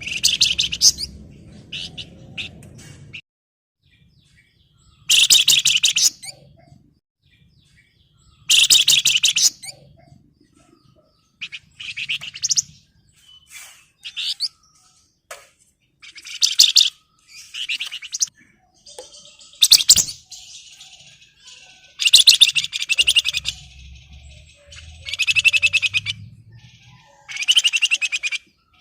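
Male Javan fulvetta (flamboyan, wergan Jawa) calling in repeated bursts of rapid, dense rattling chatter, about a dozen separate bursts. This is the excited, in-breeding-condition calling used to challenge a rival.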